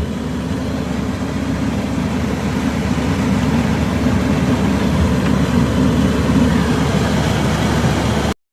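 A vehicle engine running steadily with a low rumble, stopping abruptly near the end.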